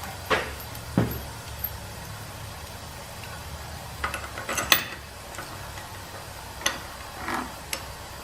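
Metal parts and tools being handled on a workbench: a handful of sharp clinks and knocks, with a cluster of louder ones about halfway through, over a steady low hum.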